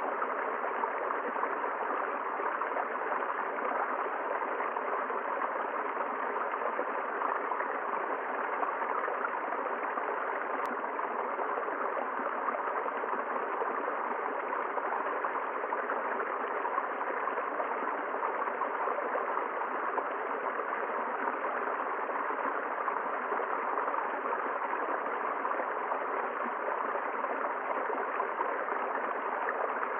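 A river flowing over rocks, a steady rushing with gurgling.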